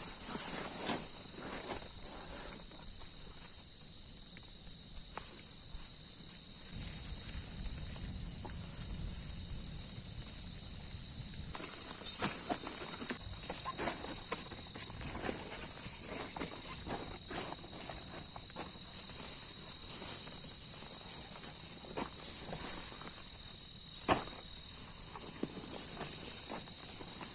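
Steady high-pitched chorus of crickets, with scattered light knocks, clicks and rustles from camping gear being handled during shelter setup; one sharper knock comes near the end.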